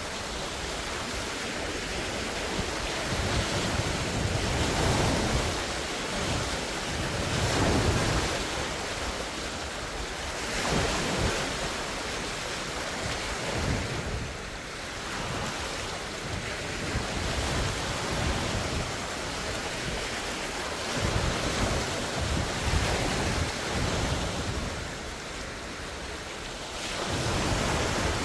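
Large wind-driven lake waves breaking and washing in steady surges every few seconds, with gusts of wind buffeting the microphone in a low rumble.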